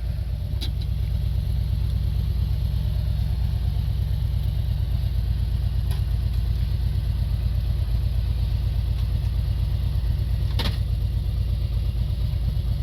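Motorcycle engines running with a steady, rapidly pulsing low rumble. Two short sharp clicks stand out, about half a second in and near the end.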